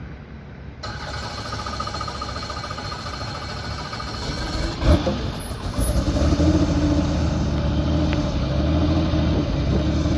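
Helicopter engine running with a steady whine. A sharp knock comes about five seconds in, and about a second later the engine gets louder and deeper.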